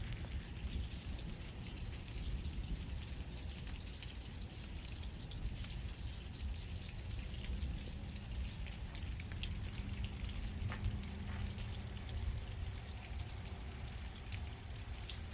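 Rain falling and dripping, with many small scattered drop ticks over a steady low rumble.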